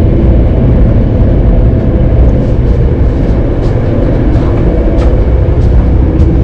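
Steady low rumble of a moving passenger train heard from inside the carriage, with a few faint light clicks over it.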